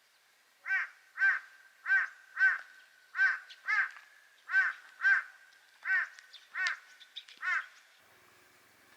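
A bird calling repeatedly outdoors: about eleven short, harsh calls, loosely in pairs, then stopping about a second before the end.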